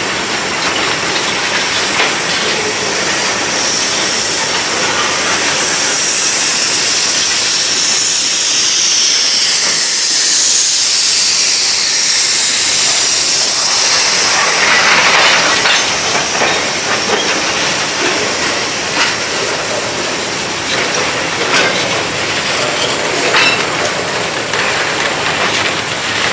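Freight train cars rolling past close by: a steady rumble of steel wheels on rail with scattered clicks as the wheels cross rail joints. A high hiss rides over the first half, then fades out.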